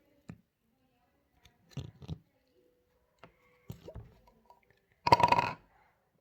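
Water slime squished and squeezed by hand, giving a few short wet squelches and, about five seconds in, one louder half-second squelch.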